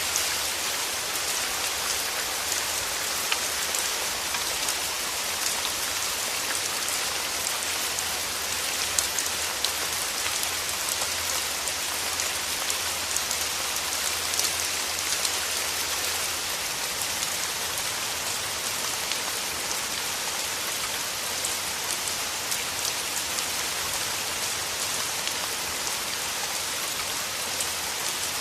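Steady rain falling through forest trees: an even hiss dotted with many small, scattered drop ticks.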